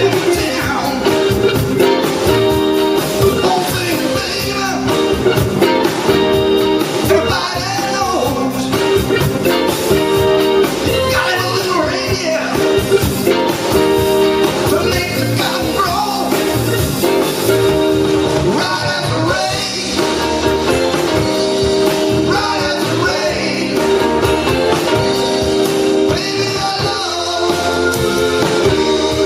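A live blues band playing, with guitar and singing.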